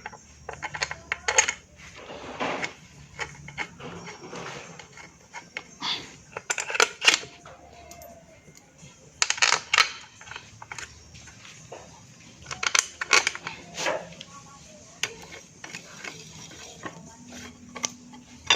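Irregular metallic clinks and taps of hand tools and small engine parts, typical of refitting a motorcycle's magneto cover and its bolts.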